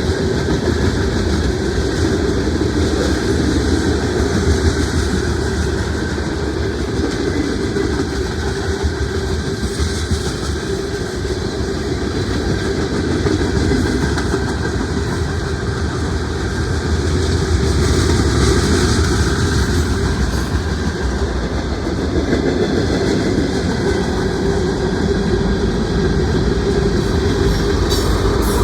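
Mixed freight train's cars rolling past, a steady rumble with the clickety-clack of wheels over the rail joints.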